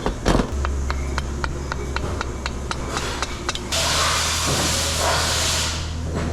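A run of evenly spaced sharp clicks, about five a second, over a low steady hum, giving way about three and a half seconds in to a steady hiss.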